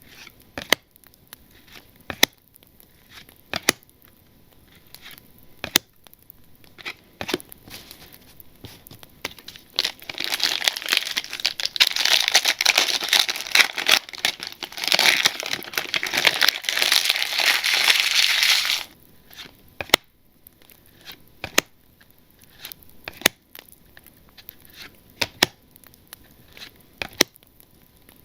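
Scattered sharp clicks and taps of trading cards being handled, then a long stretch of crinkling and tearing as a plastic card-pack wrapper is torn open and crushed. The crinkling stops suddenly about two thirds of the way through, and the sparse clicks resume.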